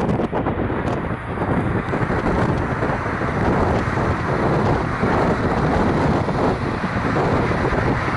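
Steady rumble of heavy city road traffic passing below, mixed with wind buffeting the microphone.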